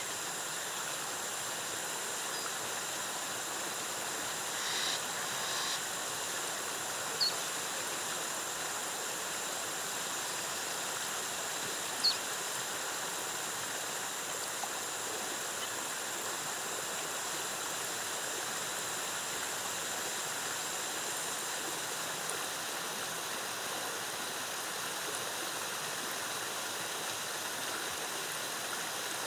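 Steady rush of a waterfall cascading, with a thin steady high-pitched whine above it. There are brief sharp chirps or clicks about seven and twelve seconds in.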